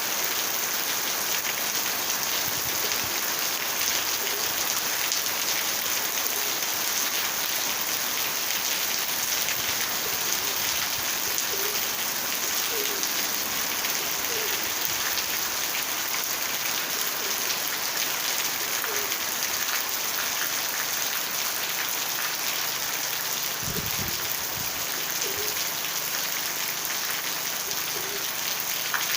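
Heavy rain falling steadily, a dense even hiss, with a brief dull thump about three-quarters of the way through.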